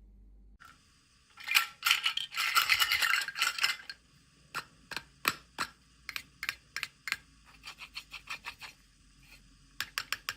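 Small plastic toy pieces and packaging being handled: a dense rattling for about two seconds, then a run of light, separate clicks and taps.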